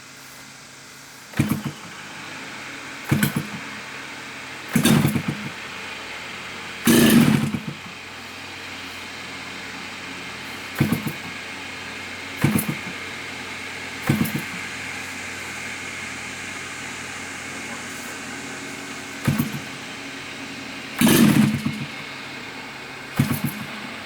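3W-140 two-stroke gasoline model-aircraft engine running steadily on its first run, with about ten short, loud bursts of noise breaking in at irregular intervals.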